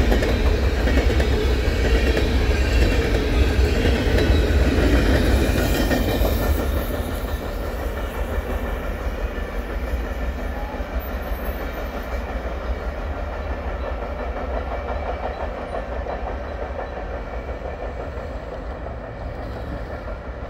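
Covered hopper cars of a Canadian Pacific grain train rolling past on steel wheels, clattering over the rail joints with a low rumble underneath. From about six seconds in, the clatter drops in level and gives way to a steadier rumble as the cars move away.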